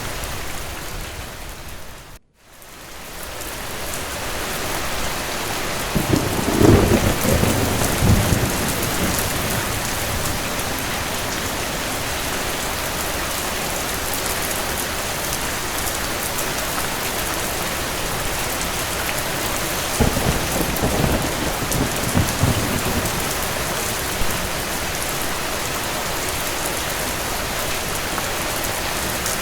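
Steady heavy rain with two low rolls of thunder, the louder one about six seconds in and a softer one about twenty seconds in. The sound dips briefly to almost nothing about two seconds in, then fades back up.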